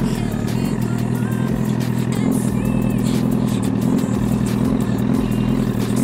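Honda CBR1000RR's inline-four engine running at low, slightly wavering revs as the bike rolls along at an easy pace, with road and wind noise.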